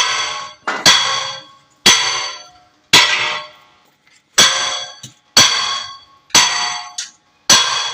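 Hammer blows on steel, about one a second, each a sharp clang that rings on briefly.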